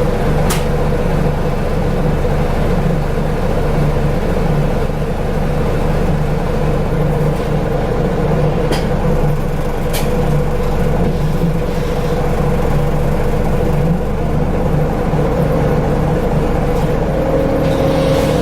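Scania L94UB Wright Solar single-deck bus heard from inside, its diesel engine droning steadily with the ZF automatic gearbox whining over it. A few sharp clicks of rattling trim break in, and the whine rises slightly near the end.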